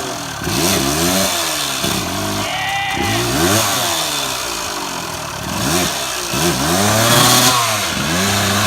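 Dirt bike engine revved up and down again and again, each rev rising and falling within a second or so, as the rider tries to power the bike out of deep mud.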